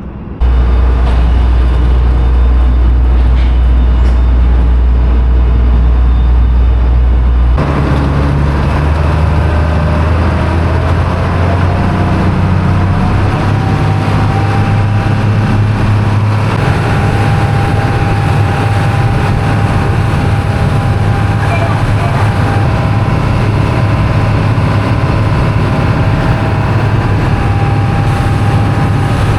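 A heavy engine running with a loud, deep, steady drone. It starts suddenly and shifts to a slightly higher hum about seven seconds in.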